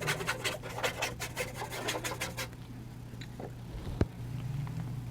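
Small dry paintbrush whisking quickly back and forth over charcoal paper, brushing off loose charcoal dust in a rapid run of short strokes that stops about halfway through. Near the end there is a single sharp tap.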